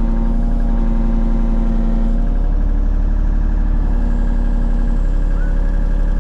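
Excavator's diesel engine running steadily under hydraulic load while the machine swings around. A whining tone comes in and drops out twice as the hydraulics are worked.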